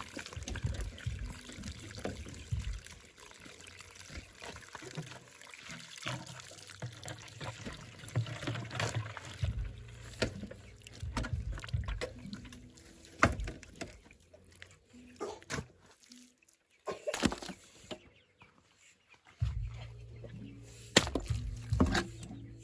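Water pouring and sloshing, mixed with irregular knocks and clatter, with a couple of brief quieter gaps in the second half.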